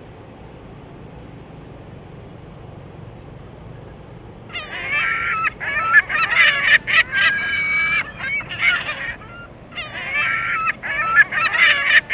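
Steady low background noise, then about four and a half seconds in, loud bird calls begin, repeated in several runs with short breaks.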